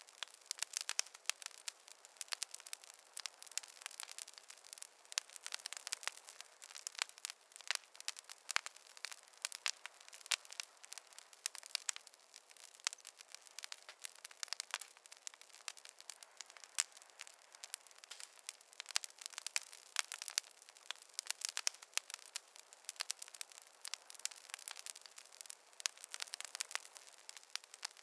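Wood fire crackling, with many irregular sharp pops and snaps over a faint hiss and no low rumble.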